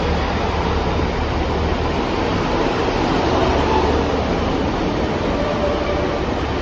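A train running past on the line: a steady rush of wheel and engine noise with a low hum under it, swelling a little about midway.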